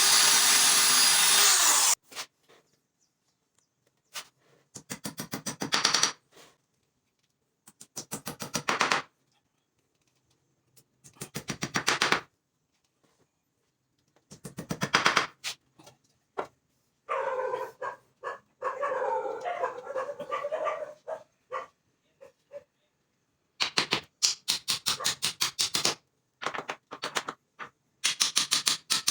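Woodworking power-tool sounds: a saw cut that stops about two seconds in, then a series of short bursts of rapid clicking, several growing louder as they go, with hard silences between them.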